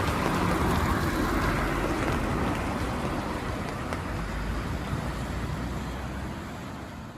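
City street ambience in the rain: traffic and tyres hissing on wet road with rain falling, a steady noise that fades out near the end.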